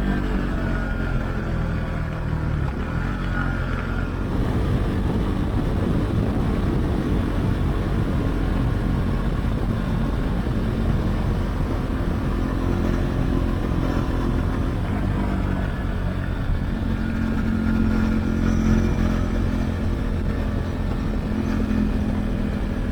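Husqvarna Svartpilen 401's single-cylinder engine running through an Akrapovic exhaust with the dB-killer removed, ridden on the road. The revs drop off at the start, the engine runs at lower revs, then it settles into a steadier, higher note about two-thirds of the way through.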